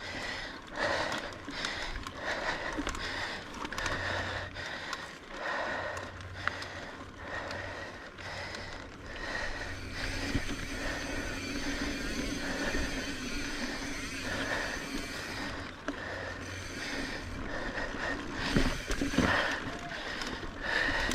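Mountain bike rolling over a rough dirt trail: tyre noise with irregular rattles and knocks from the bike over bumps.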